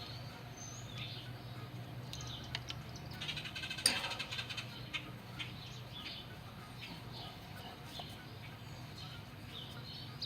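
Small birds chirping now and then over a steady low hum. A short run of light clicks from hand-tool work peaks in one sharp tap about four seconds in.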